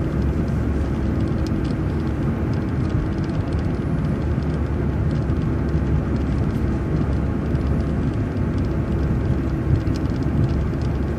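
Transit bus driving along: steady engine and road noise with a faint steady hum.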